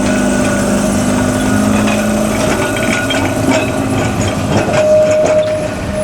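Heritage electric tram running on rails: a steady motor hum that fades about two and a half seconds in, then a run of clicks from the wheels over the track in the second half.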